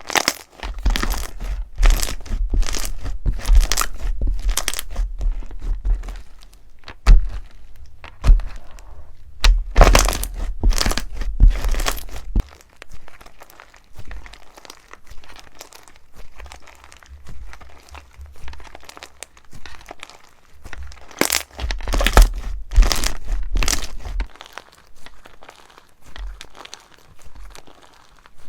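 Slime being squeezed and pulled by hand, giving rapid crackling, crinkling and tearing sounds. These come in three busier stretches with dull low thuds under them, and lighter crackling in between.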